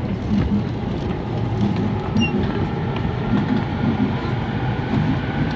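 Steady rumble of a train running on the rails, with uneven low pulses.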